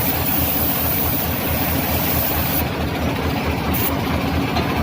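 An engine-driven machine runs steadily with a rapid low throb, under a hiss of air that cuts out twice briefly in the second half.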